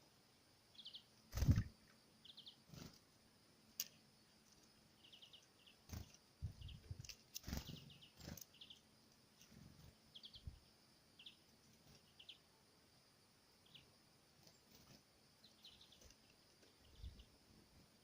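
Small birds at a feeder giving short, high chirps in quick little clusters, repeated all through. Several knocks and thumps come in between, the loudest about a second and a half in.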